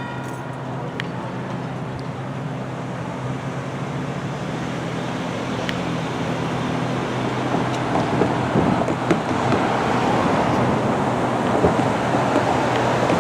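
Diesel locomotive engine running with a steady low hum that fades after about six seconds, while a rushing rumble grows louder in the second half, with a few scattered clicks.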